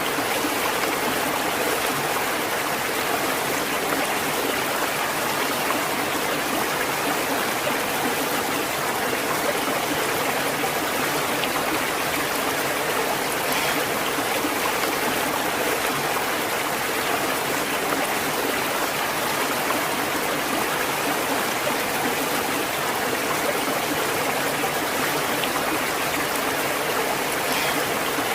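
A stream of flowing water running steadily, an even rushing and trickling with no breaks.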